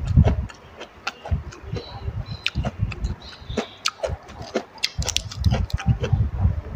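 Close-miked chewing and mouth smacking from a person eating khanom jeen rice noodles in curry with raw vegetables, made up of many sharp, irregular clicks.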